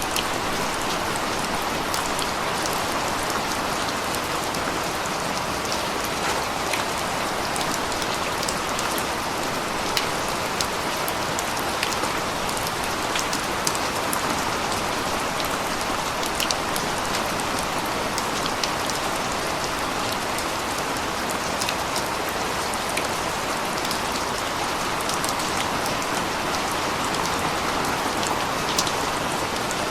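Steady rain falling: a constant hiss with many sharp ticks of single drops striking nearby scattered through it.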